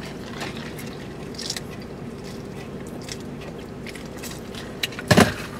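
Close-up chewing of fried seafood, with small clicks and scrapes of food being handled, over a steady low hum in the car's cabin. One short loud sound comes near the end.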